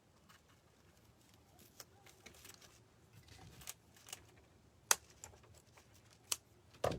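Scissors snipping off excess string, among light handling clicks and rustles; three sharper clicks stand out in the second half, the last with a soft thump.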